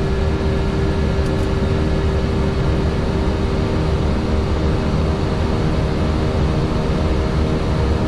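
Steady cockpit noise inside an Airbus A321neo: a constant low rumble of engines and rushing air with a steady hum over it.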